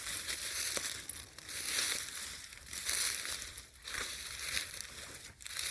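Footsteps crunching through dry leaf litter and brush at a steady walking pace.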